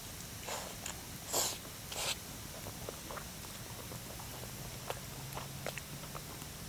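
Wood campfire crackling: scattered sharp pops and snaps, with three short rustling bursts in the first two seconds, the middle one loudest.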